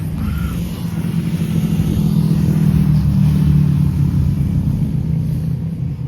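A car engine running close by with a deep, steady drone. It swells to its loudest around the middle and eases off near the end.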